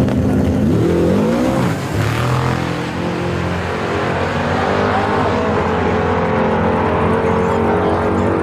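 Truck engines running loud, with one revving up in a rising pitch about a second in before settling into a steady run.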